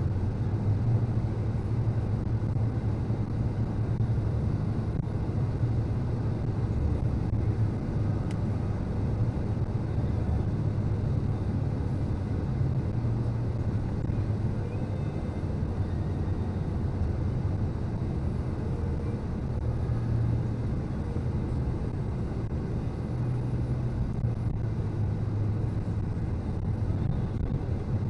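A motor vehicle engine running with a steady low rumble that swells and eases a little.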